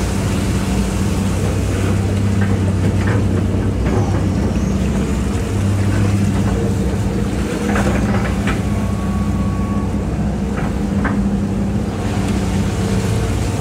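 Hitachi EX200-5 excavator's diesel engine running steadily, with a few short knocks and clanks from the machine as it works.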